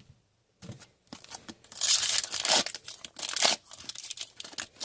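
Foil trading-card pack being torn open and its wrapper crinkled, a loud crackling rip about two seconds in followed by lighter rustles and clicks.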